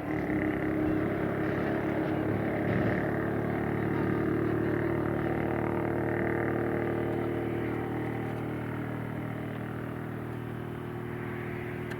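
2TE116 diesel locomotive's 5D49 diesel engines running as it passes, a steady drone with the whistle of the engine's turbochargers, fading slowly in the second half.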